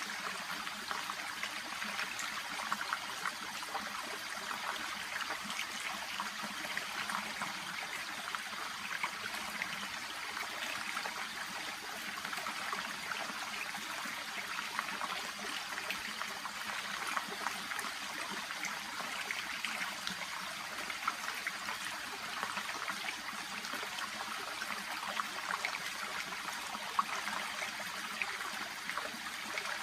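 Shallow brook babbling steadily: a continuous rush of running water flecked with many small trickling splashes.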